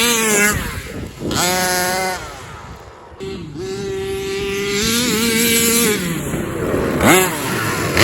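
Small two-stroke gas engine of a 1/5-scale Rovan Baja 5T RC truck revving hard in long bursts of throttle, its pitch sagging each time the throttle is let off, then a few quick blips near the end. The truck is being driven at full power, spinning its stock tires.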